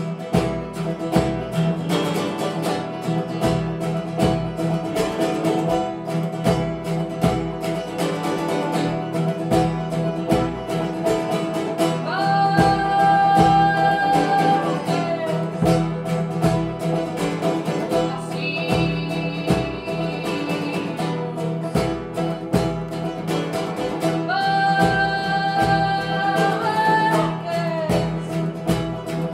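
Live band music: plucked guitar over a steady beat, with long held melody notes coming in three times.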